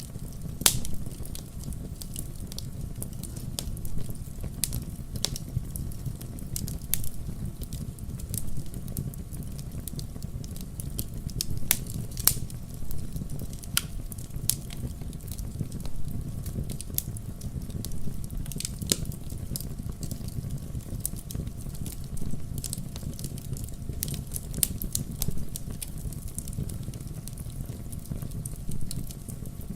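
Wood fire burning in a fireplace: a steady low rumble with irregular sharp crackles and pops from the logs, a few louder pops scattered through.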